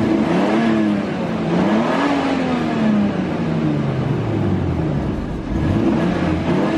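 Toyota Supra Turbo's twin-turbo inline-six engine revved while the car stands still, rising sharply about three times and settling back between revs, once dropping slowly over a few seconds.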